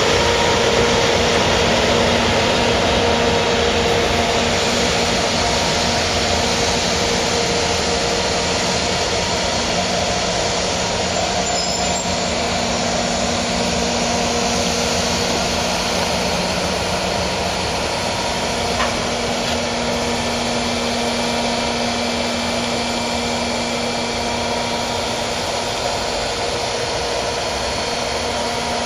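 Freight train running: a steady, continuous rumble with a humming tone over it that eases off slightly toward the end.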